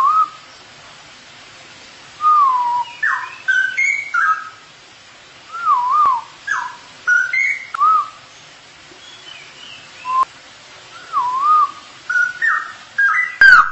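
Straw-headed bulbul singing: liquid whistled notes that glide and loop up and down, delivered in a string of short phrases with pauses between them.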